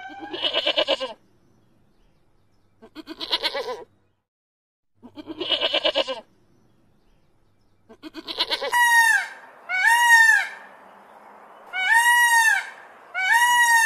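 Three shaky bleating calls about two and a half seconds apart. Then, from about nine seconds in, an Indian peacock calling again and again: loud arching calls, rising then falling, about one a second.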